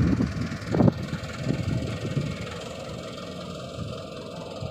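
Mitsubishi Canter PS125HD dump truck's diesel engine running steadily, with one loud thump just under a second in.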